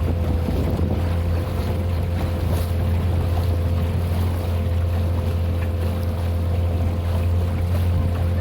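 A small boat's motor running at a steady speed, a constant low drone with a steady hum above it, mixed with wind on the microphone.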